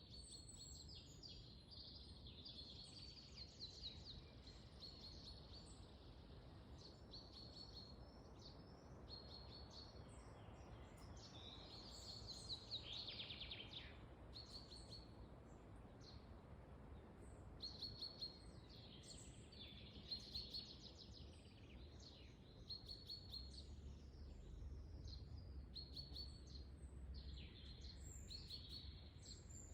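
Several small songbirds chirping and trilling in quick repeated short notes, over a faint low rumble of wind that grows stronger near the end.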